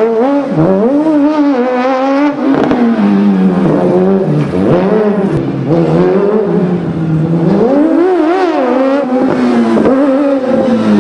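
Kawasaki-engined Fiat 500 race car driven hard, its engine revving up and dropping back again and again as it accelerates and brakes, the pitch climbing and falling every second or two.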